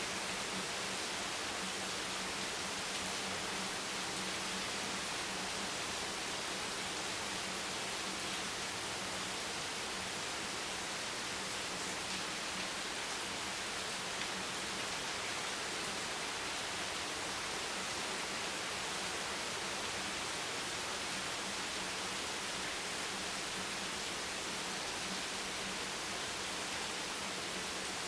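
Steady rain, an even hiss with no separate drops or changes, over a faint low steady hum.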